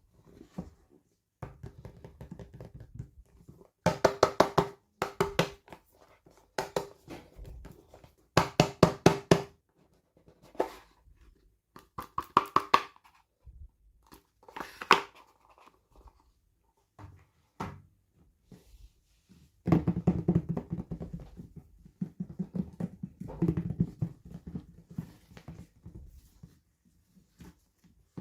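Hands unboxing toy packaging: irregular bursts of rapid crackling and clicking of plastic and cardboard, with occasional knocks and taps.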